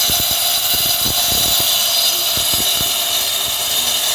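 Angle grinder running steadily as it cuts a groove into a masonry wall, with a constant high whine and a steady tone. Irregular low thumps sound through the first three seconds.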